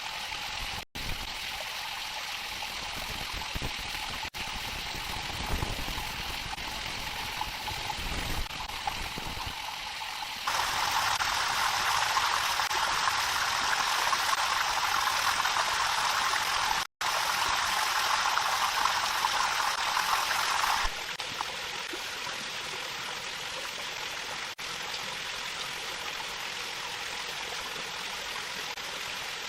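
Running water, a steady stream. It gets clearly louder from about ten seconds in until about twenty-one seconds in, with two very short dropouts where the audio cuts.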